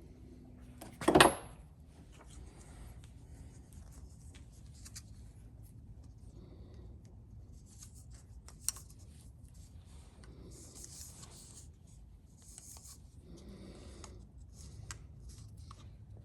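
Light rubbing and handling noises of hands working on pipe fittings, with one loud, short knock about a second in and a small click later.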